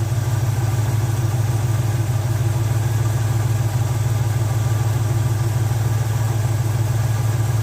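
Chevrolet 350 cubic-inch small-block V8 idling steadily, its carburetor idle mixture screws set even on both sides. It holds about 19 inches of steady manifold vacuum, which the owner reads as worn valve guides but valves still sealing.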